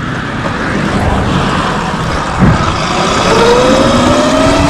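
Sur-Ron X Light Bee electric dirt bike's motor whining while riding, the whine rising in pitch from about three seconds in as the bike speeds up. It runs over a steady rushing noise, with a single knock about halfway through.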